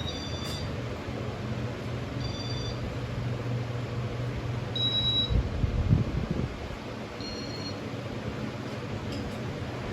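Short electronic beeps from a Casablanca ceiling fan's intelli-touch control, about five of them spread out, each acknowledging a button press, over the low hum of the running fan motor. A low rumbling bump, the loudest sound, comes about five to six seconds in.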